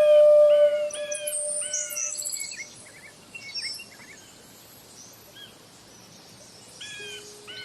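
Bird-like chirps in an instrumental piece: short calls, each dropping in pitch, repeated about once a second over a held tone that fades out about two seconds in. Fainter, higher twittering follows, and the chirps return near the end.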